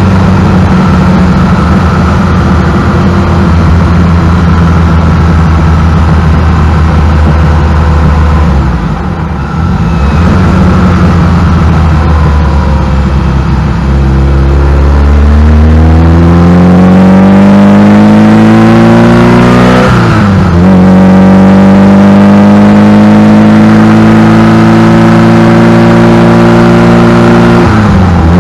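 Ferrari 308 GTSi Quattrovalvole's V8 engine heard close up from its engine cover while driving. It runs steadily at low revs for about half the time, with a brief lift off the throttle. It then accelerates with a rising pitch, drops sharply at an upshift about two-thirds through, and rises again to another upshift near the end.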